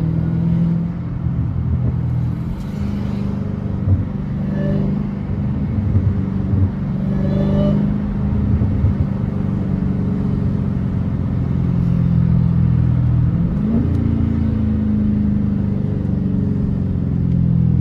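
Dodge Hellcat's supercharged 6.2 L HEMI V8 running steadily as the car drives along, with one rise in engine pitch about three-quarters of the way through that then slowly falls back.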